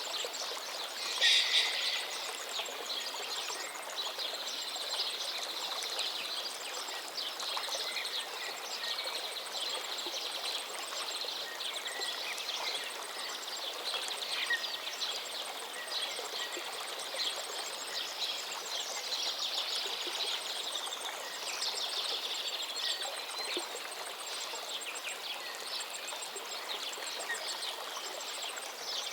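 River stream flowing steadily, with birds chirping over it throughout and a louder burst of calls about a second in.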